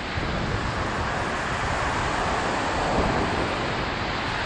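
Steady wash of surf breaking on the beach, with wind on the microphone.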